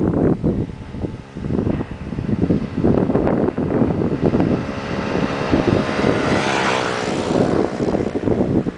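Kawasaki ZXR250 inline-four running through a Vance & Hines slip-on exhaust while riding, under heavy wind buffeting on the microphone. About six to seven seconds in, a high engine tone swells and shifts in pitch.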